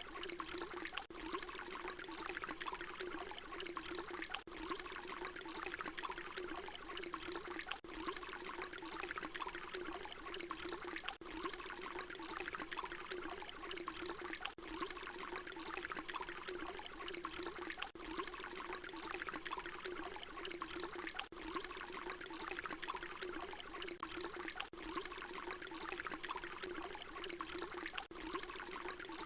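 Water pouring in a steady, continuous splashing stream. It is broken by a very brief dip about every three and a half seconds, where the short recording loops back to its start.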